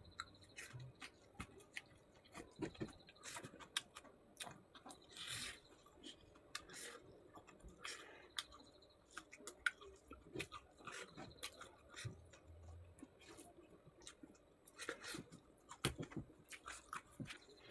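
A person chewing pork up close, with irregular soft mouth clicks and smacks.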